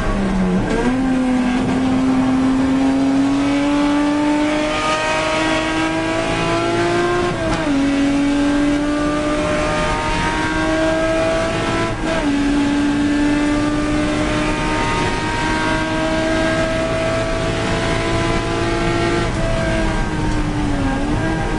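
A Mk3 Ford Capri race car's engine, heard from inside the car, pulling hard at full throttle. The note climbs steadily and drops sharply at the upshifts about seven and a half and twelve seconds in. Near the end it falls away as the driver lifts off.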